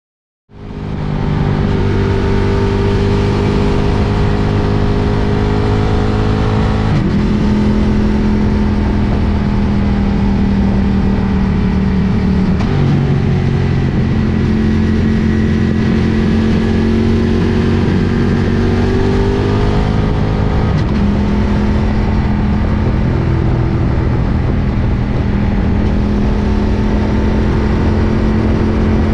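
Ducati Diavel motorcycle engine running under way, starting abruptly about half a second in. The engine note holds fairly steady and shifts in pitch about 7, 13 and 21 seconds in.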